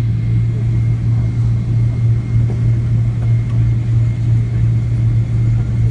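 Steady cabin noise of a Boeing 777-300ER taxiing after landing: a loud low hum and rumble from the engines and airflow, with a faint thin high whine.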